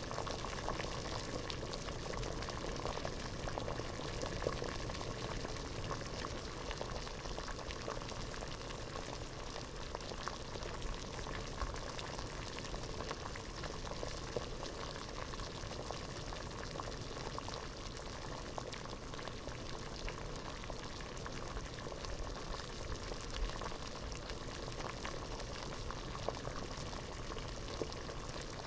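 Water boiling steadily in a pot, a dense continuous bubbling with scattered louder pops.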